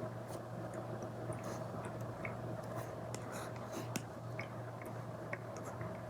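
Apple Pencil Pro tip tapping and scratching across an iPad screen fitted with a paper-like film: irregular short ticks and brief scratchy strokes over a steady low hum.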